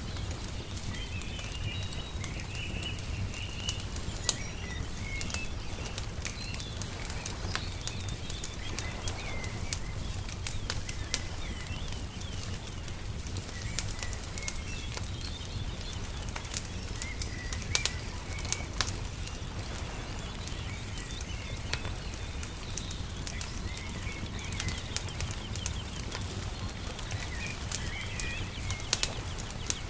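Wood fire crackling with scattered sharp pops, while small birds chirp and twitter over a steady low rumble.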